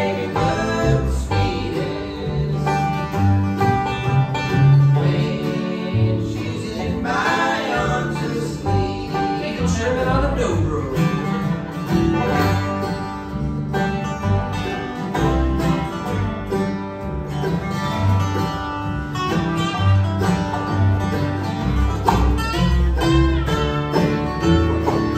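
Bluegrass band playing live, with banjo and guitar picking.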